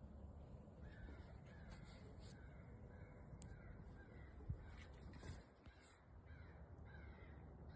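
Crows cawing faintly in the distance, a steady run of short caws roughly every half second, answering a crow call. A single soft knock comes about four and a half seconds in.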